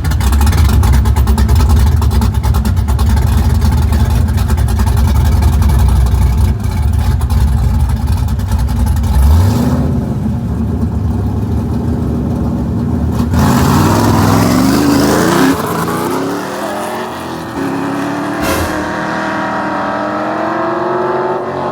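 Car engines accelerating hard, their pitch climbing again and again through the gears. A heavy low rumble fills the first half, and the rising engine notes come through most plainly in the second half.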